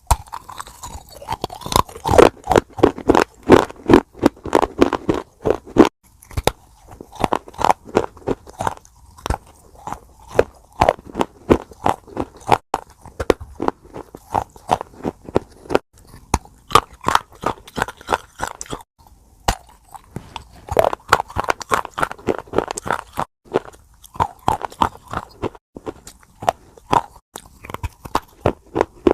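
Hard baked clay being bitten and chewed: a long run of sharp, irregular crunches, several a second, with brief pauses between bites.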